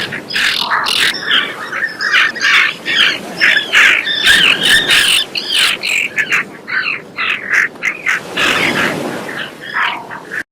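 Terns calling: harsh, grating calls repeated in quick succession and overlapping.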